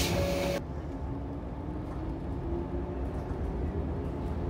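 A compressed-air hiss from the electric train cuts off about half a second in, followed by the low rumble of the train starting to pull away from the station, with a faint motor whine slowly rising in pitch.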